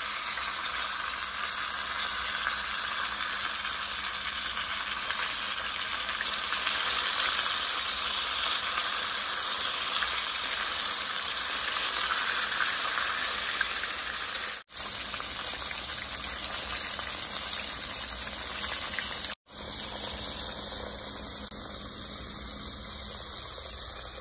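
Floured beef liver pieces deep-frying in hot oil, a steady dense sizzle that cuts off for an instant twice in the second half.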